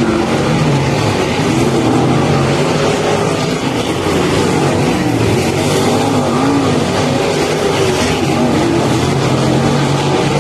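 Several racing car engines running hard together, their pitches rising and falling as they rev and lift.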